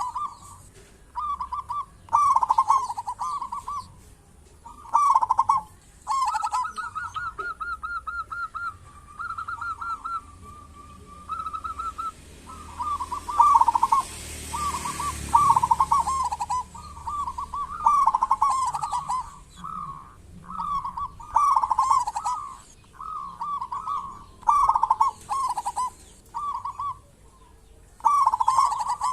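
Zebra dove (perkutut) cooing over and over in short, rapid, rolling phrases, with a quicker higher trill in the first half.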